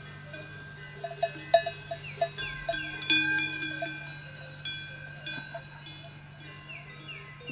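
Animal bells clanking in a quick irregular run between about one and three seconds in, with ringing tones that hang on, and short falling chirps from birds over a steady low hum.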